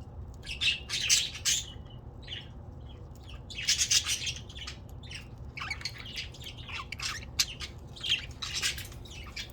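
Several pet budgerigars chattering in short bursts of high chirps, with a louder flurry about four seconds in.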